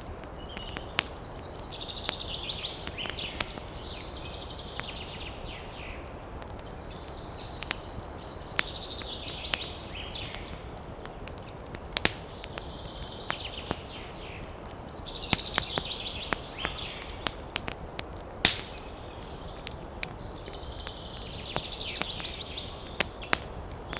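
Campfire crackling, with frequent sharp pops and snaps over a steady hiss. A woodland animal chatters in high-pitched bursts of a few seconds, four times.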